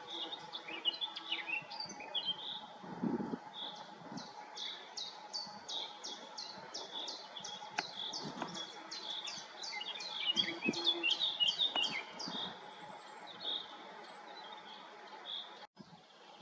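Wild songbirds singing. One bird repeats a quick, high, falling note about three times a second for roughly eight seconds, and other chirps are scattered around it.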